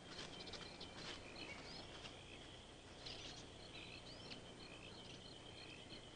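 Faint birdsong: short chirps and rising twitters repeating throughout, with a thin steady high tone behind them, over a low steady hum.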